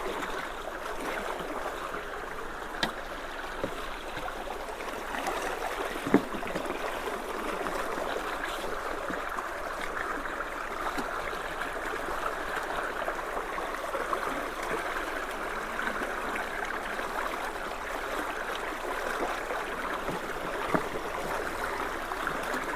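Steady rush of creek water pouring into a culvert, with a few sharp knocks, the loudest about six seconds in.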